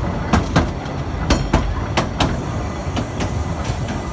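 Train rolling along with a steady low rumble, its wheels clicking over rail joints in pairs: clickety-clack, with three clear pairs in the first half and fainter clicks after.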